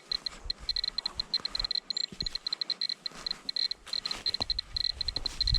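Radiation dosimeter (Geiger counter) beeping: short high-pitched beeps at irregular intervals, several a second, as it registers radiation. Low rumbling thumps come in near the end.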